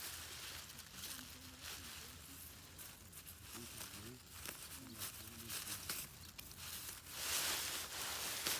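Rustling and crackling, with faint voices in the background; the rustling grows louder near the end.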